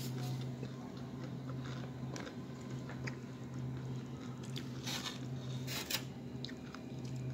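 A person chewing and crunching tortilla chips, with a few sharper crunches around five and six seconds in, over a steady low hum.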